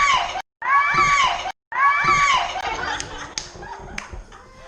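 A short shrill sound holding one pitch, played three times in a row with abrupt silent cuts between, as an edited replay. Quieter clatter and a few sharp clicks follow near the end.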